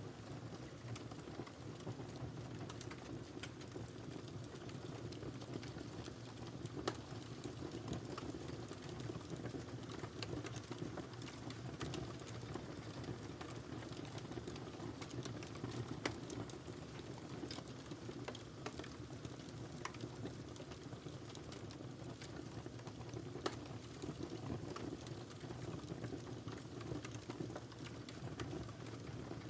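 Wood fire crackling and hissing steadily, with scattered sharp pops, a few louder ones.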